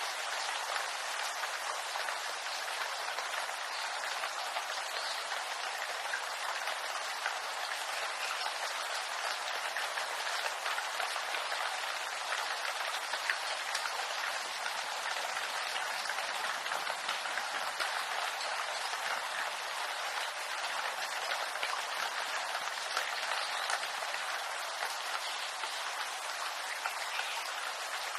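Steady rain falling on bamboo leaves, a dense patter of countless small drops that holds even throughout.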